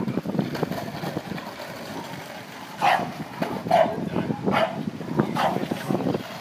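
A dog barks about five times, roughly once a second, starting about three seconds in, over a steady low rumble.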